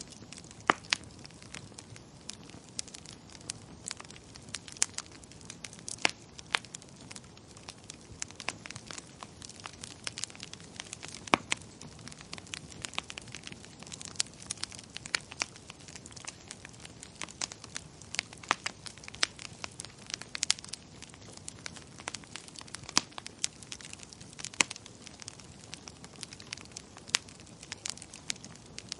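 Wood fire crackling in a fireplace: irregular sharp pops and snaps, several a second and some louder than others, over a soft steady rush of flame.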